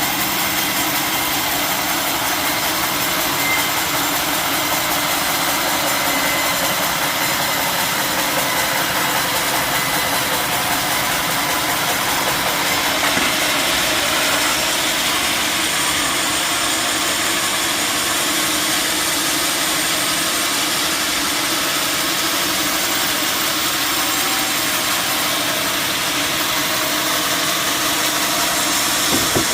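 Sawmill machinery running steadily, an even mechanical drone with a strong high hiss that does not change.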